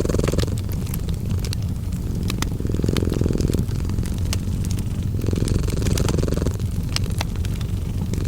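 A cat purring in a steady low rumble that swells with each breath, about every three seconds, mixed with the crackling of a wood fire in many small sharp pops.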